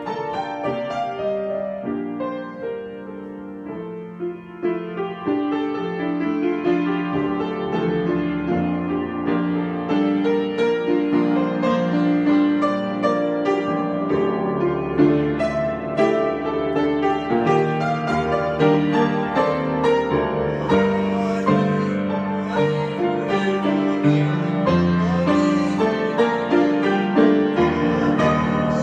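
Piano improvisation, struck notes and chords sustained together; the playing grows louder and denser about five seconds in and spreads into higher notes from about ten seconds on.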